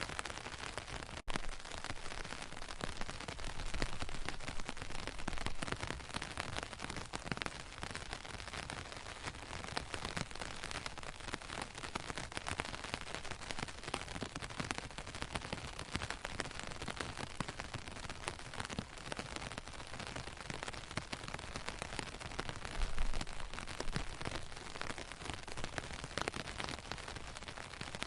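Steady rain, a dense patter of drops throughout, with a brief low bump about twenty-three seconds in.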